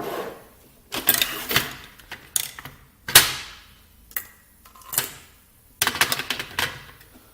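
Irregular clicks, knocks and clatter from the Krups Nespresso coffee machine's lever and capsule parts being worked by hand, with a quick run of clicks near the end.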